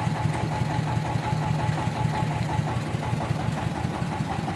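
Sawmill engine running steadily at an even idle, with a fast regular pulse and a steady hum.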